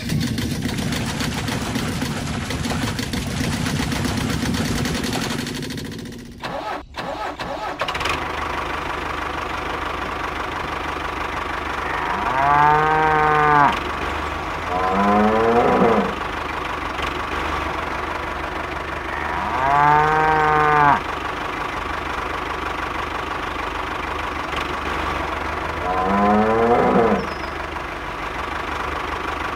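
Cows mooing four times over the steady running of a miniature tractor's engine, which settles into an even hum about eight seconds in.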